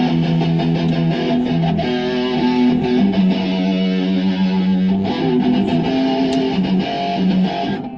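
Loud electric guitar played through a Muff fuzz pedal, holding notes and chords that change every second or so, then cutting off suddenly near the end.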